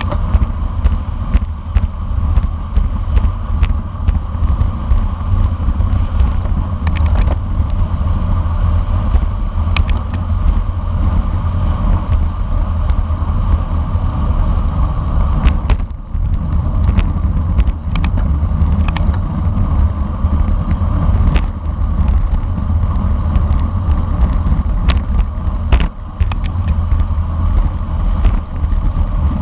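Wind buffeting the microphone of a camera riding along in a bicycle race, with a steady low rumble of wind and road noise and scattered sharp clicks and knocks from bumps and the bike.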